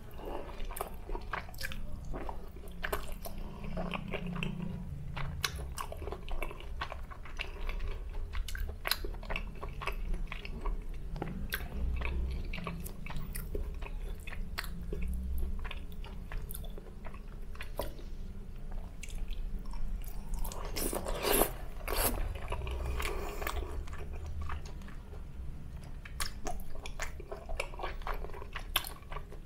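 Close-miked eating of sauced grilled chicken skewers (chicken skin and chicken tail): biting pieces off the stick and chewing, a steady run of short wet clicks and smacks, with one louder stretch of chewing about two-thirds of the way through.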